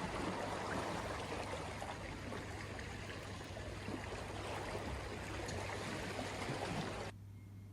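Rainwater running across a road surface, a steady rushing and splashing that cuts off suddenly about seven seconds in.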